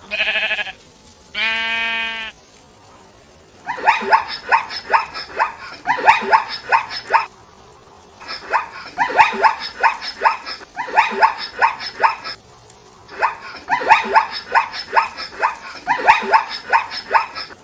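Animal calls: two short pitched, bleat-like cries, then three long runs of rapid, sharp calls at about four a second, with brief pauses between the runs.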